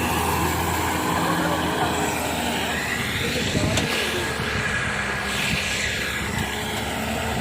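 Diesel engine of a wheeled excavator running, its pitch sweeping up and down through the middle.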